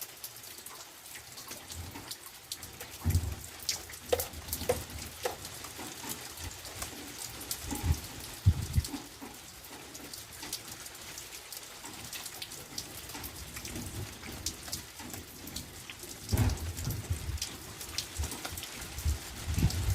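Rain falling, with many separate drops ticking on surfaces and a few short low rumbles about 3, 8 and 16 seconds in.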